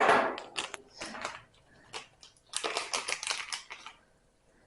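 Packaging crinkling and rustling in two bursts while small dryer replacement parts are unwrapped and handled.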